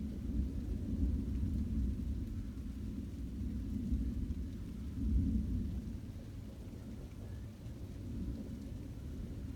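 Thunder rumbling continuously at low pitch, swelling about five seconds in and easing off afterwards.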